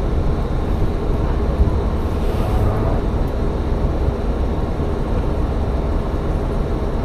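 Tsugaru Railway diesel railcar running with a steady low engine and running rumble.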